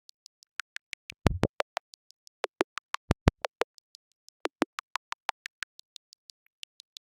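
Synthesized robot sound effect: a fast string of short electronic blips, about six a second, each at a different pitch, with a few deeper, louder blips about a second in and around three seconds in.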